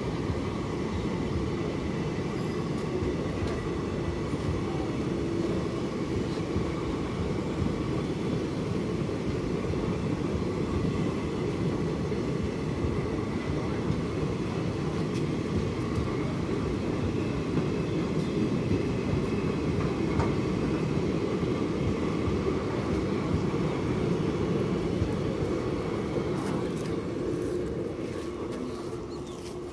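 Passenger coaches of an Indian Railways express train rolling past, a steady rumble of wheels on rail that fades near the end as the last coach goes by.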